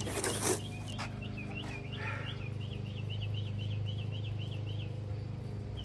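A bird calling a quick series of short, repeated chirps, about four a second, for several seconds, over a steady low hum. There is a brief rustle at the start.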